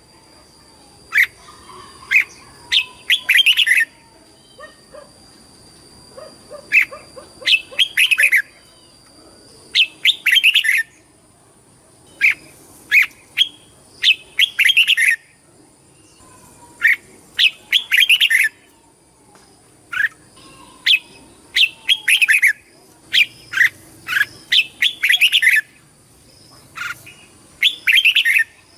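Red-whiskered bulbul singing: short, loud phrases of quick, bright notes, repeated every second or two with brief pauses between.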